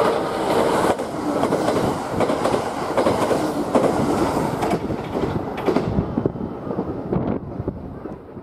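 Kintetsu limited express electric train running past the platform close by, a loud rolling rumble with rapid clicking of wheels over the rail joints, dying away near the end.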